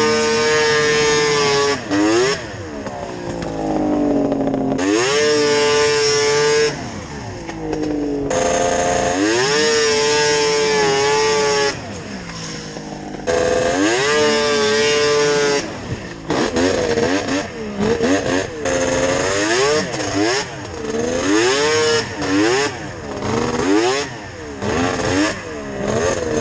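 Yamaha VMAX 700 three-cylinder two-stroke snowmobile engine with Hauck aftermarket triple pipes, revving hard under a climb. It is held at high revs in four pulls of about two seconds each, dropping back between them, then goes into quick on-off throttle blips about once a second.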